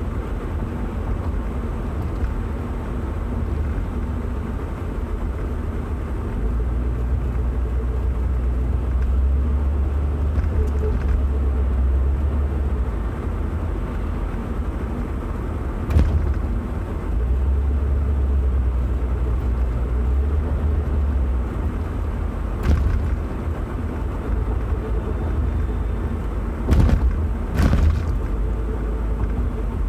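Steady low rumble of a vehicle on the move, swelling and easing in stretches, with a few sharp knocks: one about halfway through, one a few seconds later, and two close together near the end.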